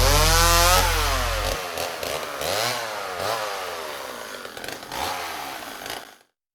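Small nitro RC engine revving up and down several times, its pitch rising and falling in sweeps, then cutting off abruptly about six seconds in.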